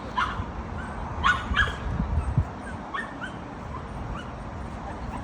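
Small dog giving a few short, sharp yipping barks, two of them in quick succession about a second in, over a low rumble.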